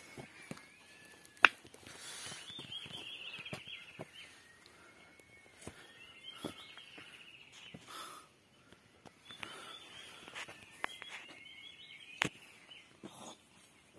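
Wild birds calling: a long thin whistle at the start, then bursts of rapid chattering notes repeated several times. Scattered sharp clicks and knocks sound underneath, the loudest about a second and a half in.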